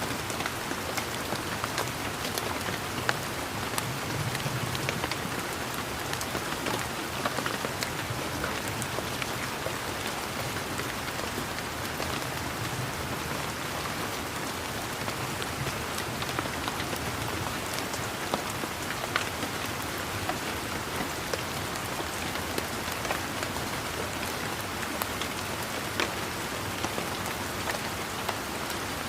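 Steady rain falling, a continuous hiss with many individual raindrops ticking sharply on top of it.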